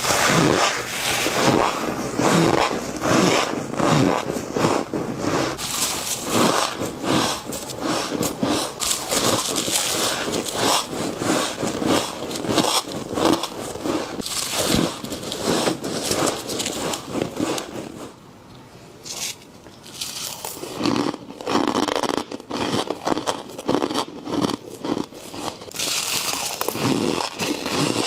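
A person biting and chewing flaky freezer frost close to the microphone: rapid squeaky, crunchy bites, with a brief lull about two thirds of the way through.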